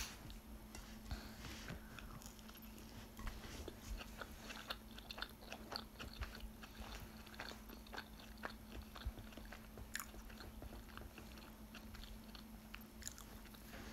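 Close-miked chewing of a mouthful of burrito with the mouth closed: soft, irregular wet clicks throughout, over a faint steady hum.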